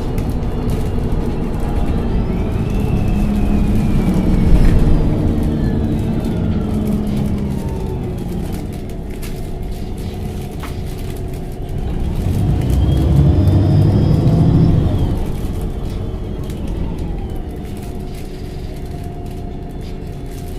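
LPG-fuelled MAN NG273T4 articulated city bus running, its engine rumbling under a drivetrain whine that glides up and down in pitch as the bus changes speed. It gets louder about two-thirds of the way through, as under acceleration.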